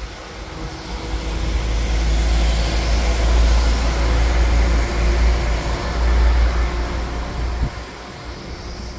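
West Midlands Railway Class 170 Turbostar diesel multiple unit passing close by, a deep rumble of engines and wheels on rail that swells, holds loudest for a few seconds, then fades as the train moves away. A single short knock comes just before it fades.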